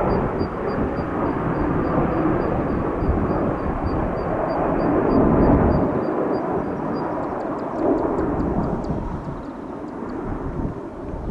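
Jet noise from Blue Impulse Kawasaki T-4 jets, a steady rush of engine sound with a faint, slightly falling whine, fading somewhat over the last few seconds.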